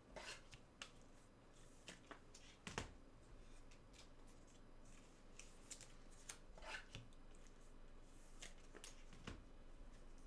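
Faint handling of trading cards and their packaging: scattered soft clicks and a few short swishes at irregular intervals, the sharpest click a little under three seconds in.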